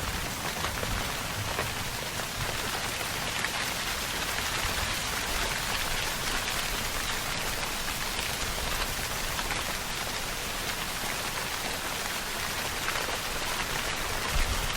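Steady rainfall: an even, continuous hiss dotted with countless small drop impacts, holding the same level throughout.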